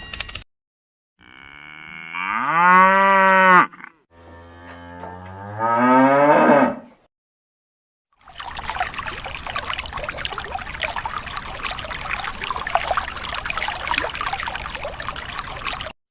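Cattle mooing twice, each call a long low moo that rises in pitch. After a short pause comes a steady rushing, splashing noise lasting about eight seconds.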